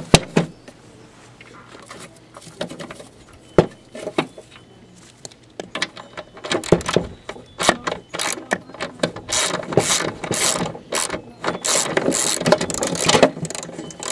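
Ratchet wrench clicking in quick runs as a loose engine mounting bolt is backed out of a lawn mower deck, after a few separate sharp knocks early on.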